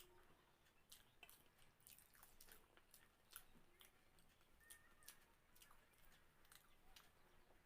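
Faint, close-up eating sounds: chewing with irregular soft mouth clicks and smacks as food is eaten.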